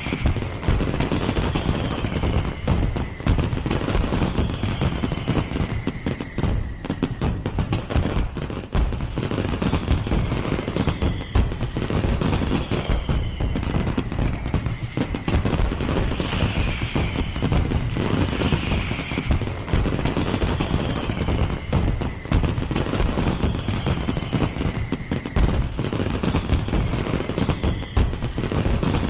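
Firework display: a dense, continuous barrage of rapid bangs and crackles, with faint falling whistles recurring every second or two.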